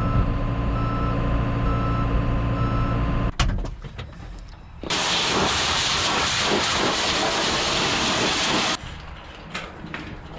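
John Deere 650K dozer's diesel engine running with its backup alarm beeping steadily, cut off sharply about three seconds in. Then about four seconds of loud hissing spray from a pressure washer that stops abruptly.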